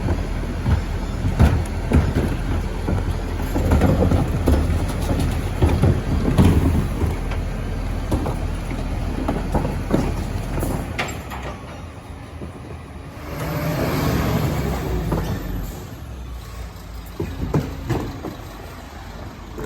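Garbage truck running, with repeated clanks and knocks over its engine drone. About thirteen seconds in, a louder swell of noise rises and falls over two or three seconds.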